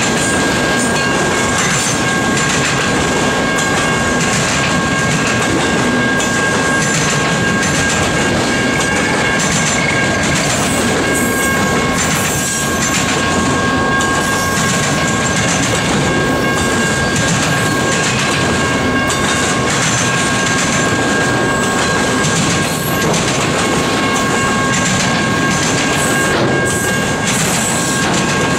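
Freight train of enclosed autorack cars rolling past at speed: a steady loud rumble with the wheels clattering over the rail joints, and a steady high ringing tone above it.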